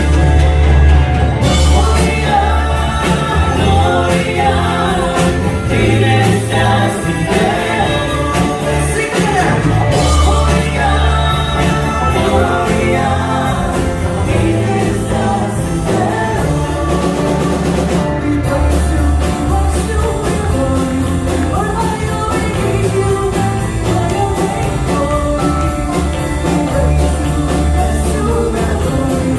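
A group singing a song with band accompaniment, a bass line and a steady beat under the voices.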